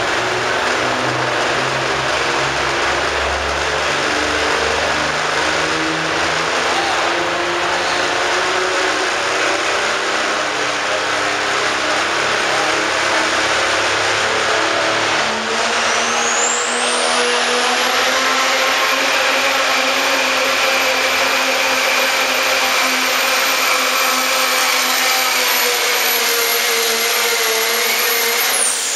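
Pro stock turbocharged diesel pickup truck running at full power on a pulling sled. About halfway through, the engine note rises and a high turbo whistle climbs and holds, then falls away just before the end as the run finishes.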